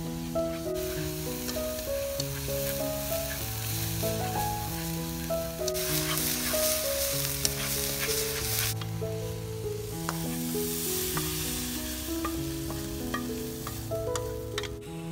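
Minced frog meat sizzling as it is stir-fried in a wok over a wood fire, with a wooden spatula scraping and ticking against the pan. The sizzle is loudest for a few seconds in the middle. Soft background music with held notes plays underneath.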